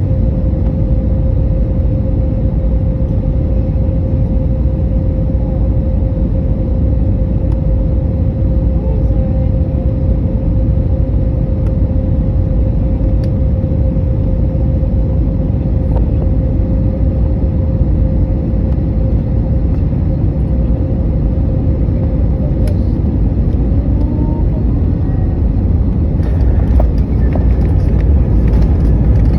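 Airbus A320neo cabin noise on approach: a loud, steady low rumble of airflow and engines with a steady hum that fades out about two-thirds of the way through. The rumble grows louder over the last few seconds.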